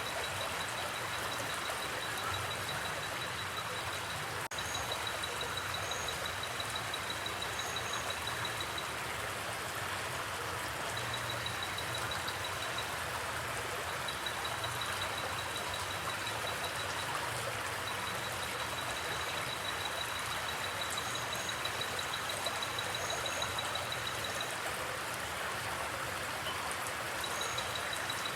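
Forest creek flowing steadily, a continuous rushing of water. Over it, a high, fast-pulsing trill comes and goes in runs of a few seconds, with occasional short paired chirps higher still.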